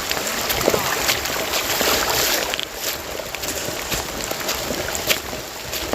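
Heavy rain pouring steadily, with scattered knocks and rustles close by.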